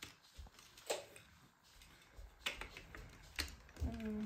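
Light clicks and taps of plastic Lego pieces being handled, a few separate ones about a second apart, with a short vocal sound near the end.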